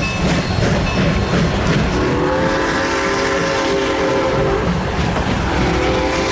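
A train rumbles and clatters along the rails. About two seconds in, it sounds a long blast of its warning signal, a chord of several notes held for about three seconds, and starts a second blast near the end.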